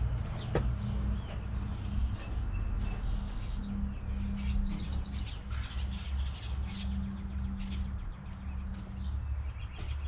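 Small birds chirping now and then, most of it about midway, over a steady low rumble and a faint on-off hum, with scattered light clicks and rustles.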